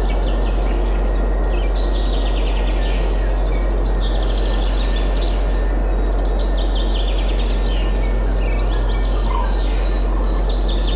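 Many songbirds chirping and trilling over one another, over a steady rush of wind with a deep, even rumble underneath.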